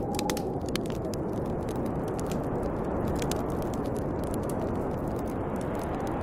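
Snowstorm wind blowing steadily, with a faint wavering whistle, over the sharp pops and crackles of a wood fire burning; the crackles come thickest in the first second or so.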